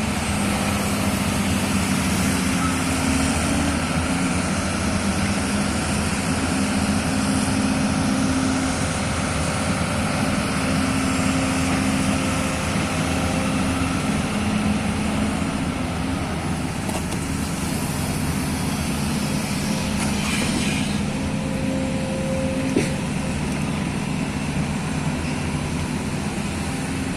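Hydraulic excavator's diesel engine running steadily, its pitch shifting slightly now and then as it works. A single sharp knock comes late on.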